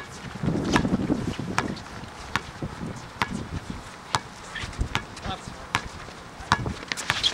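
Irregular sharp knocks and a few brief squeaks from play on a court, over a low murmur of voices.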